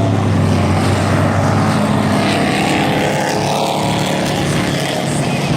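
Engines of a pack of racing trucks lapping a dirt oval: a loud, continuous mix of several engine notes.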